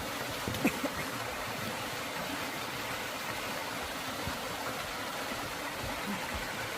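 Mountain stream water rushing steadily into a rock pool, with one brief tap under a second in.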